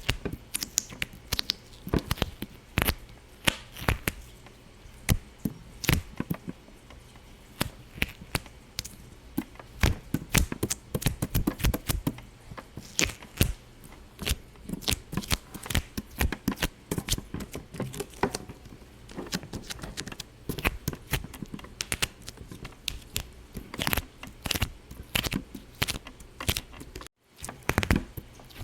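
Irregular sharp pops and clicks, several a second, with a brief cut-out near the end.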